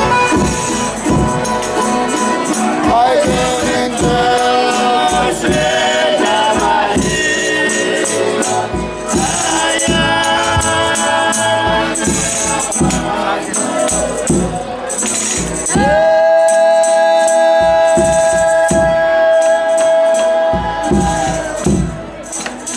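Folia de Reis singing: voices in Portuguese folk devotional song over steady rhythmic percussion with a tambourine-like jingle. Past the middle, the voices hold one long high note for about five seconds before breaking off.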